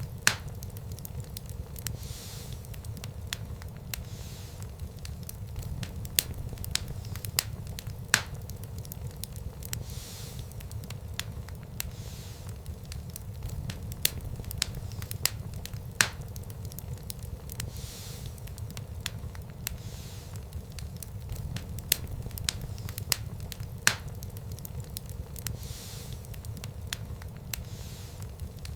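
Wood fire crackling in a fireplace: a steady low rumble of the flames with many sharp crackles, and a louder pop about every eight seconds.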